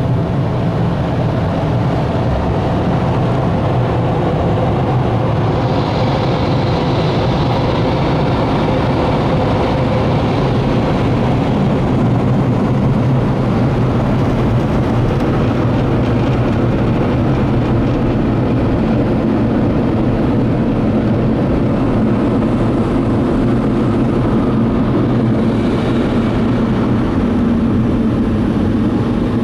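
Belanger Vector car wash air dryers blowing: a loud, steady rush of air over a low motor hum, in the drying stage after the spot-free rinse.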